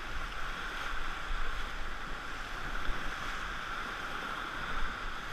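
Whitewater rushing in river rapids: a steady hiss of moving water.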